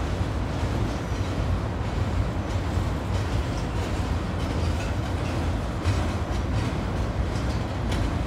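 Freight cars rolling across a steel truss railroad bridge overhead: a steady rumble of wheels on rail, with a few sharp clicks near the end.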